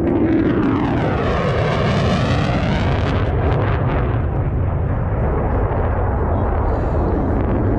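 Military jet aircraft making a low, close pass: loud jet noise with a sweeping whoosh as it goes by, about two seconds in, then a steady rumble.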